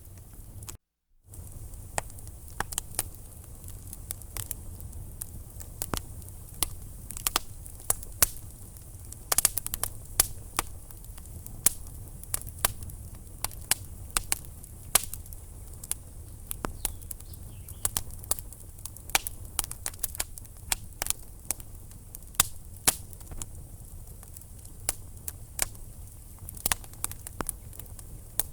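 Logs burning in a fireplace, crackling: irregular sharp pops and snaps over a low steady rumble of the fire. The sound cuts out completely for a moment about a second in.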